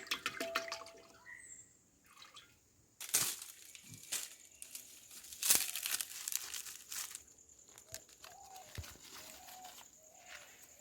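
Scattered knocks and clicks with some rustling, a handful of sharp ones in the first half.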